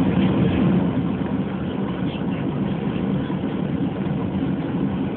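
Steady hum of an airliner cabin with the jet engines running at low power, before the take-off run.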